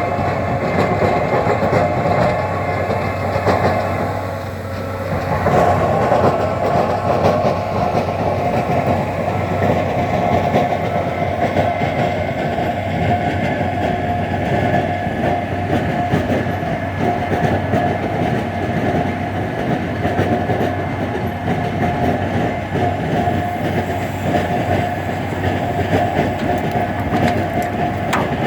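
Tractor loader engine running steadily with a rattling, clattering sound and a steady whine over it. It drops briefly a few seconds in, then picks up again.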